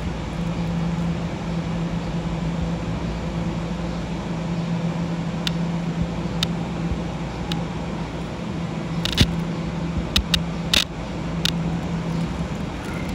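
Keihan electric commuter train approaching and running past on the nearby track, a steady rumble with a low hum. A few sharp clicks come in the second half as it draws near.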